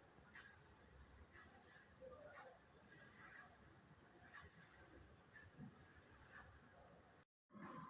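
Faint, steady high-pitched cricket trill with a fast even pulse, with a few faint, scattered chirps over it. The sound cuts out completely for a moment near the end.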